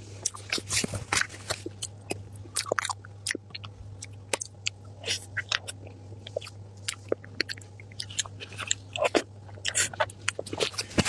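Close-miked eating: a person biting and chewing food, with a quick, irregular run of wet mouth clicks and smacks.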